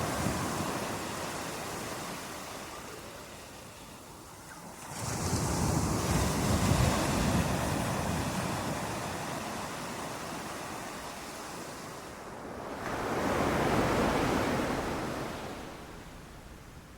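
Ocean waves breaking on a beach. One wave crashes suddenly about five seconds in and slowly washes out; a second builds, breaks a little past the middle and recedes near the end.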